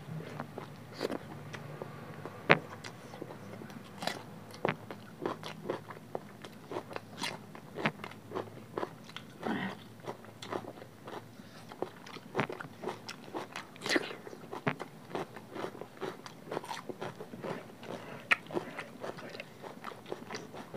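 Close-up mouth sounds of people eating egg and vegetable curry with rice by hand: wet chewing, lip smacks and clicks in an irregular run.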